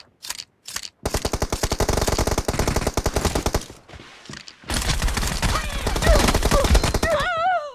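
Video game automatic gunfire: two long bursts of rapid fire, separated by a brief pause, with a warbling electronic tone near the end.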